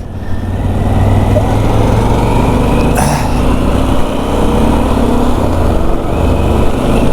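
Harley-Davidson Pan America motorcycle riding at road speed, its engine running steadily under a strong, even rush of wind noise.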